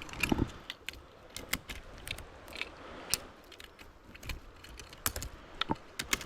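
Irregular light clicks and ticks from fishing tackle being handled, about three a second and uneven in spacing.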